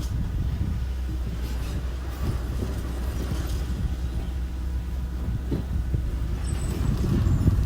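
A small construction machine, bulldozer or dump truck, running with a steady low hum, with scattered knocks and clatter over it.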